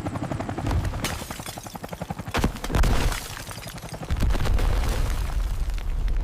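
Animated sound effects: dense, rapid crackling with heavy low booms, loudest about two and a half seconds in and again from about four seconds in.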